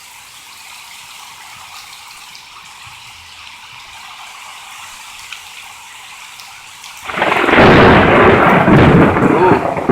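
Steady rain falling, then about seven seconds in a loud, crackling thunderclap rumbles in suddenly and keeps going.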